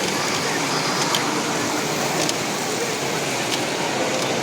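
Steady background hubbub of a crowded exhibition hall, with indistinct distant voices and a few faint clicks.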